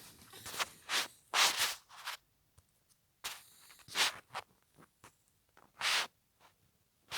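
Bedding and clothes rustling and scraping as someone gets into bed, in a string of short bursts with brief pauses between them.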